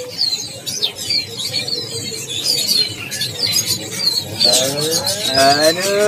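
Many caged birds chirping together in quick, short high chirps that repeat over and over. About four and a half seconds in, a low drawn-out call rises and falls over it.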